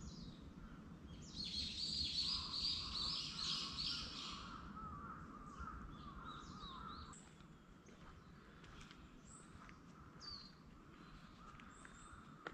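Wild birds calling in woodland: a loud run of repeated high notes about a second and a half in, lasting about three seconds, then scattered short chirps and sliding calls.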